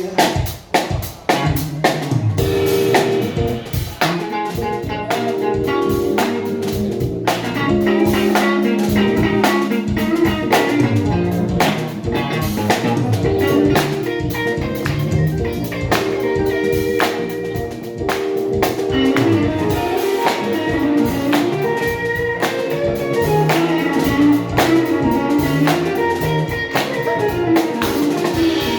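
A band playing an instrumental passage of a song: guitar over a steady drum-kit beat.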